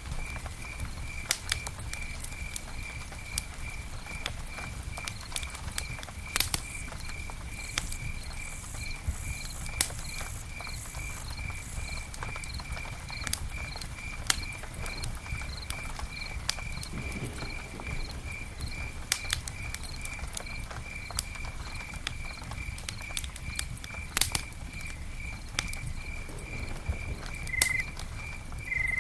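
Campfire burning with scattered sharp crackles and pops over a low steady rumble. Behind it a high chirp repeats evenly, about two or three times a second.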